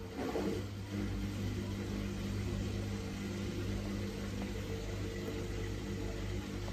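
Samsung WF1700WRW front-loading washing machine running its daily program: a steady motor hum as the drum turns, with a brief wavering in pitch about half a second in.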